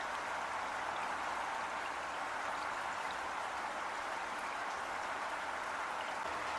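Heavy rain falling in a steady, even hiss, with a few faint individual drops ticking now and then.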